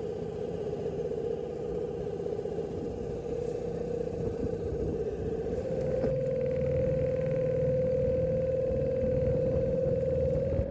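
Small outboard motor on a canoe running steadily, then speeding up about six seconds in, its hum rising slightly in pitch and getting louder.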